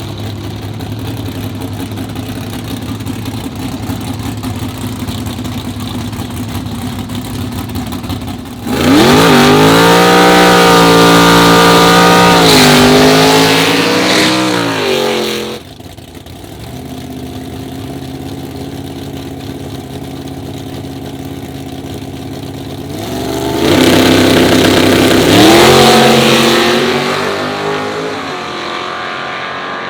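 Car engine idling, then revving hard for about seven seconds, its pitch climbing and levelling off in steps before it drops back to idle; about 23 seconds in it revs hard again for a few seconds and fades.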